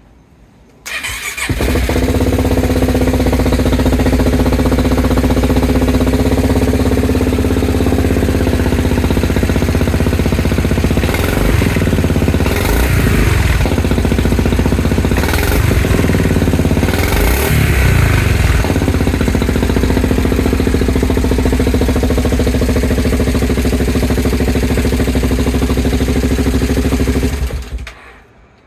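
Yamaha Grand Majesty 400 scooter's single-cylinder engine cranking briefly and catching about a second in, then idling steadily. It is revved several times in the middle, then switched off abruptly near the end.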